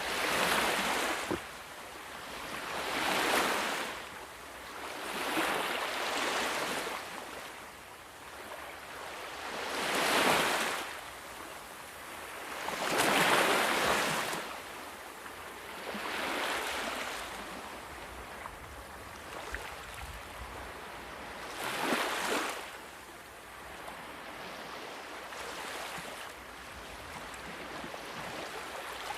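Ocean waves breaking on a shore, one after another every few seconds. Each comes as a rush of surf that swells and dies away.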